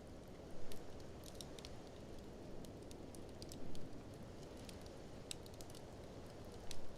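Wood fire in a fireplace crackling with scattered sharp snaps, three louder pops spread through, over a steady low rush of blizzard wind.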